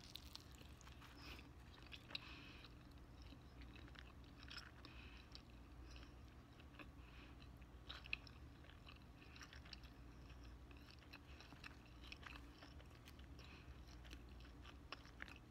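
Faint close-up mouth sounds of biting into and chewing a slice of pepperoni pizza with the mouth closed: small wet clicks and soft crust crunches, with a slightly louder click now and then.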